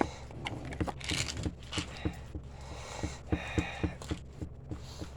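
Light, irregular tapping and clicking, a few taps a second, over a faint hiss.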